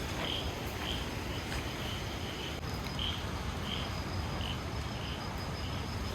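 An insect chirping in the forest, short chirps repeated about every three quarters of a second, over a steady low rumble of background noise.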